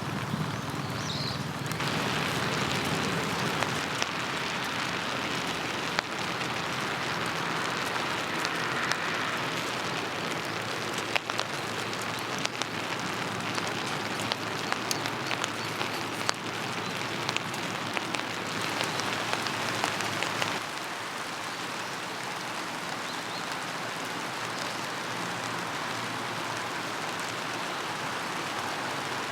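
Steady rain, with many sharp separate drops tapping on a surface. The sound drops to a lower, even level about twenty seconds in.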